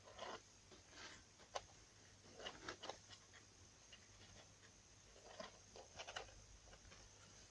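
Mother cat and her newborn kittens stirring in their bedding: faint, irregular soft rustles and small wet clicks, with near silence between them.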